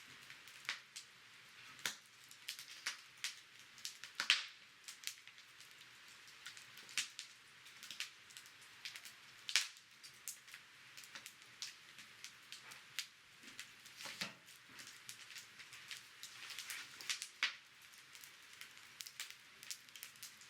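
Wood fire crackling in a brick fire stand: a soft hiss with irregular sharp pops and snaps, the loudest about four and ten seconds in.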